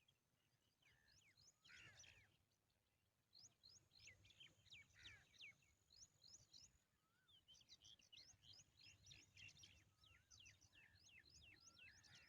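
Small birds chirping faintly: rapid series of short high chirps that sweep up and down, with brief lulls about two and a half and seven seconds in.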